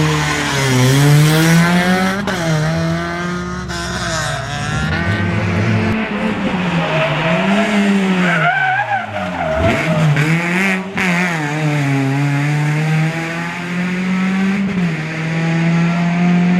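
Rally car engine revving hard and falling back again and again as it shifts gear and works through corners, with a sharp drop in revs about ten seconds in.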